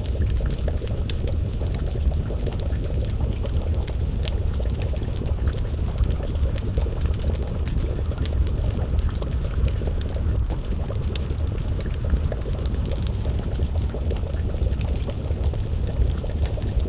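Wood fire crackling with frequent small sharp pops, over a steady low rumble and a bubbling pot of stew simmering on the flames.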